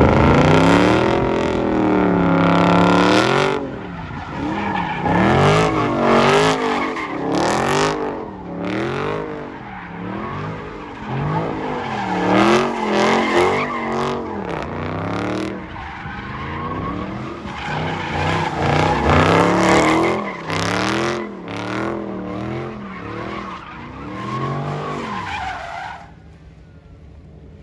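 A car doing a burnout: the engine is revved again and again, its pitch rising and falling about once a second, over the noise of spinning, squealing tyres. The revs drop away about 26 seconds in.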